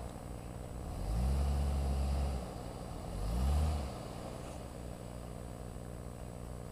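Hummer H3 engine with a Magnaflow exhaust revved twice: a rising rev held for about a second and a half, starting about a second in, then a shorter rising rev about three seconds in. It then settles back to idle while the truck struggles on a slick, muddy rock ledge.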